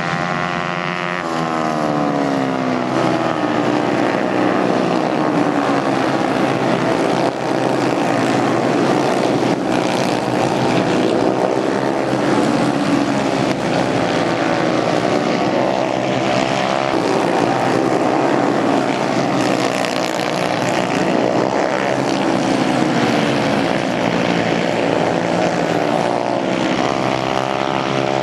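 Several racing motorcycle engines running hard at high revs, overlapping, their pitch repeatedly rising and falling as the bikes accelerate and back off.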